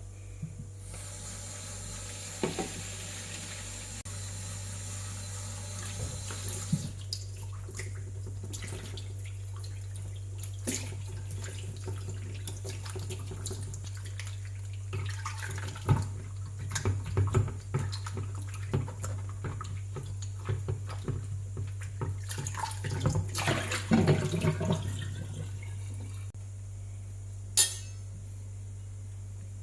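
Kitchen tap running into the sink for several seconds, then splashing and knocks and clinks of handling things in the sink, over a steady low hum.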